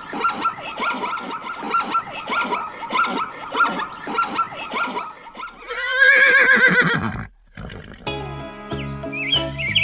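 A string of short animal calls, about two a second, then one loud drawn-out call lasting about a second and a half. Music starts about eight seconds in.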